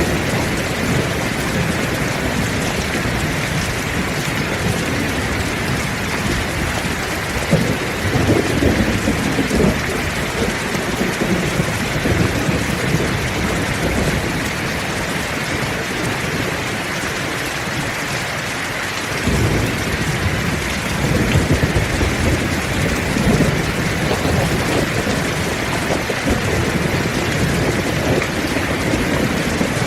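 Heavy rain falling steadily, with low rolls of thunder rumbling through it, swelling about a quarter of the way in and again from just past the middle.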